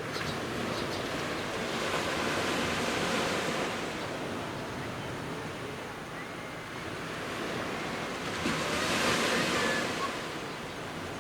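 Sea waves breaking and washing up a beach, the surf swelling twice, the second surge near the end the loudest.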